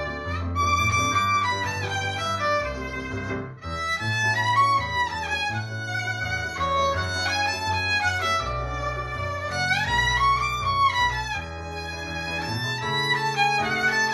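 A violin playing a sustained, gliding melody over a low accompaniment, with a short break in the phrase about three and a half seconds in.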